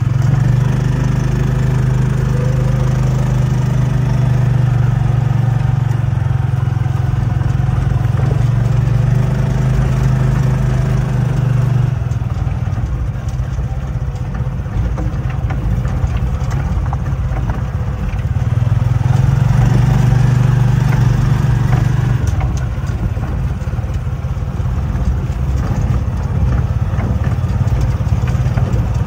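Tricycle's motorcycle engine running under way, heard from inside the sidecar: a steady low engine note that eases off near the middle and picks up again for a few seconds, with light rattling from the cab.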